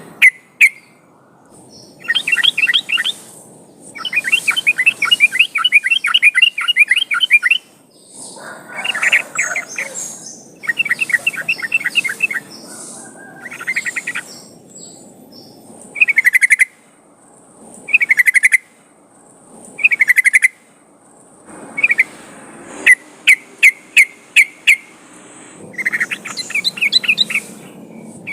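Yellow-vented bulbul (trucukan) singing loudly and persistently. Bursts of fast, chattering trills lasting a second or several alternate with short bubbly phrases a couple of seconds apart, and there are brief pauses between the phrases.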